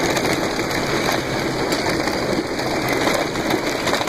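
Wind rushing over the microphone on a moving off-road vehicle, with a small engine running underneath at a steady level.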